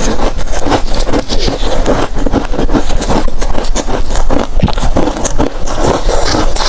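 Close-miked crunching of freezer ice being bitten and chewed: a dense, unbroken run of sharp cracks and crackles.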